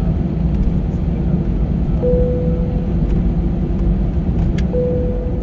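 Steady low rumble of an Airbus A320 cabin with the engines running before takeoff, with a faint steady hum that comes in twice, about two seconds in and near the end.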